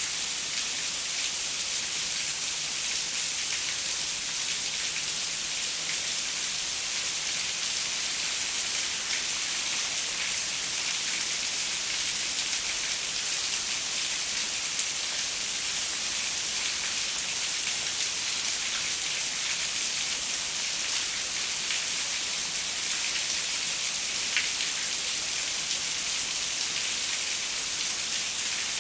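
Steady rain falling on a window: an even hiss with scattered individual drop ticks, one a little sharper than the rest late on.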